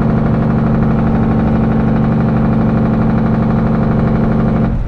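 Heavy truck's diesel engine running steadily, a constant drone with a strong low hum. It cuts off suddenly near the end.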